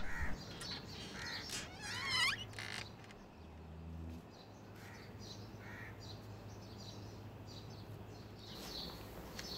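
Birds calling outside: a few short calls scattered through, and one wavering call about two seconds in, over a low steady hum.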